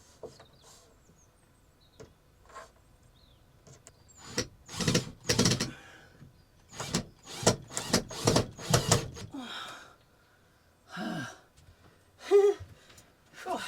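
A run of about eight short, noisy knocking or scraping strokes, roughly two a second, from hand work on a wooden shed panel.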